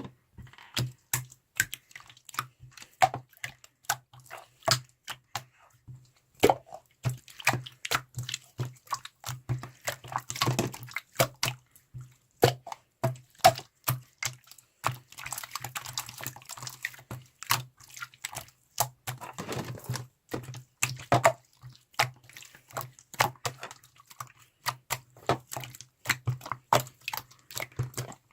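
Slime being squished and worked by hand, giving a rapid, irregular run of wet clicks and pops.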